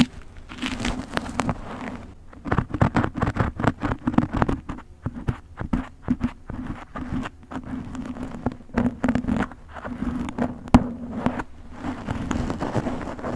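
Plastic snack wrappers crinkling and rustling as packets are handled, with many light clicks and taps as items are set into containers.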